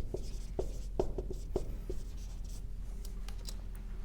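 Writing on a board: a quick run of short strokes and taps in the first two seconds, then only faint scratches.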